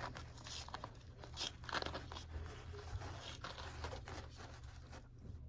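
Backing paper being peeled off a sheet of skateboard grip tape, with irregular crinkling and tearing, over a steady low hum.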